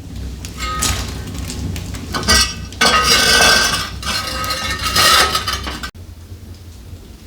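Dishes and metal utensils clinking and clattering together, with short ringing tones. The sound cuts off suddenly about six seconds in.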